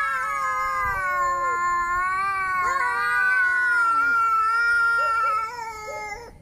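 Angry cat yowling: one long, drawn-out wavering call that fades out near the end.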